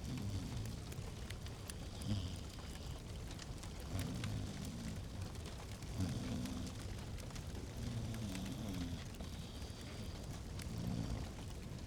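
Wood fire crackling in a fireplace, with scattered sharp pops over a low, steady rumble of flame.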